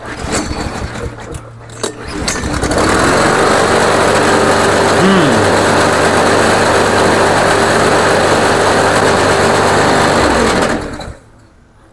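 The mower's hot 140cc PowerMore engine catches about two and a half seconds in and runs steadily for about eight seconds, then dies out.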